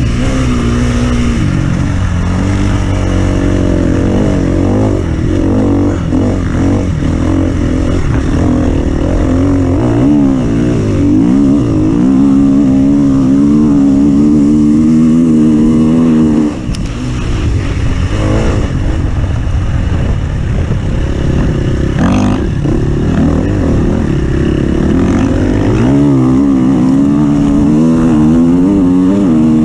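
Off-road vehicle engine running hard, revving up and down over and over, with a brief drop in loudness about halfway through. A low rumble of noise runs underneath.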